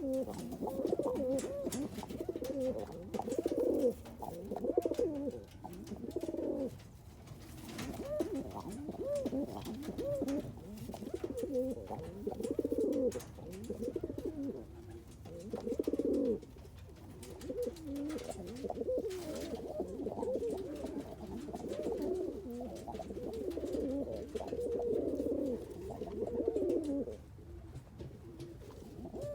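Several domestic roller pigeon cock birds cooing together, their low, warbling coos overlapping almost without a break, easing off briefly a few times. The cocks are kept apart from hens and ready to mate.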